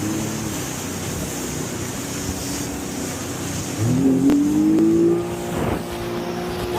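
Jet ski engine running, its pitch climbing sharply about four seconds in as the throttle opens, then holding high. Wind on the microphone adds a steady hiss.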